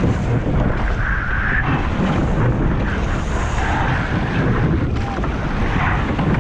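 Heavy wind buffeting the microphone over rushing sea water, aboard a rowed surf boat.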